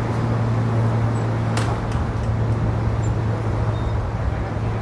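Steady low engine drone with a constant deep hum, and a single sharp click about a second and a half in.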